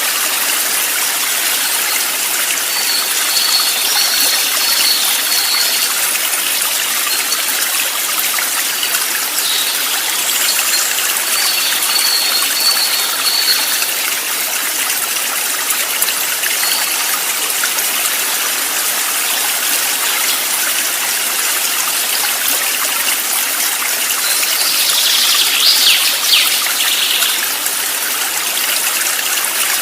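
Steady rush of flowing stream water. Faint thin high tones sound a few times, and a louder brief high sound comes about 25 seconds in.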